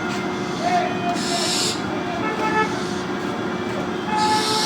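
Barn owl giving two harsh, hissing screeches, each under a second long, one about a second in and one near the end, over a steady low hum.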